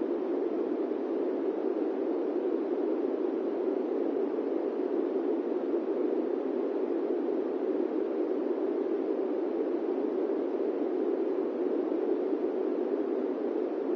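Steady airplane-cabin white noise: an even, unbroken rushing hiss centred in the low-mid range, with no tones or changes.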